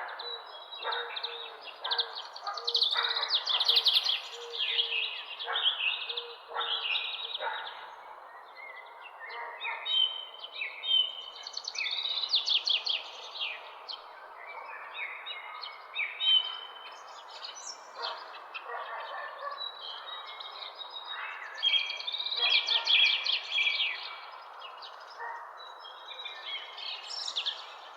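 Several birds chirping and singing, a mix of quick trills and short calls, over a steady background hiss.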